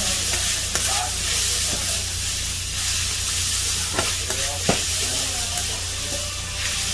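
Pork sizzling on a hot iron griddle, a steady hiss, with a few sharp clicks along the way.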